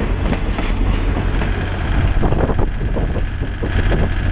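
The last cars of a Canadian Pacific traprock freight train roll past, their wheels clicking over rail joints, with the clicks thinning out near the end as the train moves away. A steady low diesel engine hum continues underneath.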